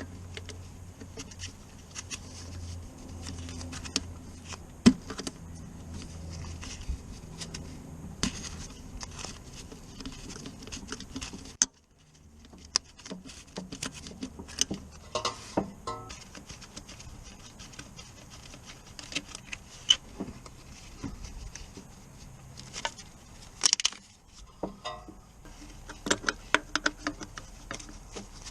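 Scattered metallic clicks, taps and rattles of hand tools and parts being handled, over a low steady hum that stops suddenly about twelve seconds in.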